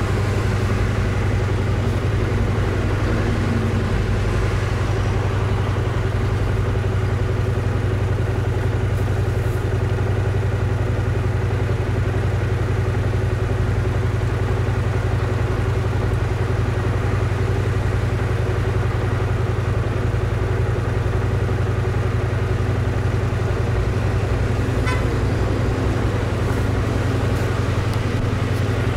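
Motorcycle engine idling steadily with an even low hum, while road traffic passes around it.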